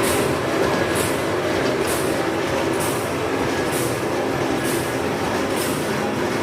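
A machine running steadily, with a short high hiss repeating about once a second.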